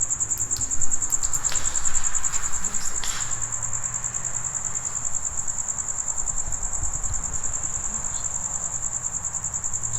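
Crickets chirping in a steady, fast-pulsing high trill, with a few brief rustling knocks about one to three seconds in.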